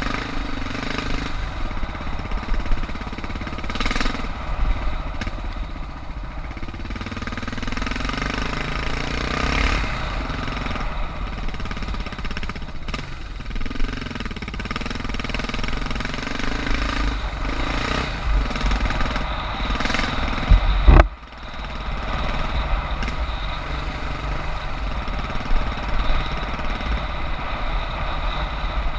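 Suzuki DR650's single-cylinder four-stroke engine running as the bike is ridden, its pitch rising and falling with the throttle. A loud sharp knock about three-quarters of the way through, after which the sound briefly drops.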